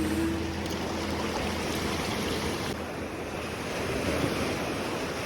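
Sea surf washing onto the beach, with wind buffeting the microphone. A faint low hum fades out during the first seconds.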